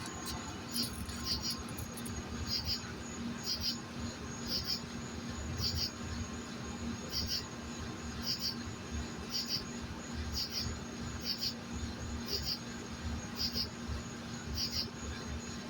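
An insect chirping steadily in the background: short, high-pitched chirps of two or three quick pulses each, repeating about once a second.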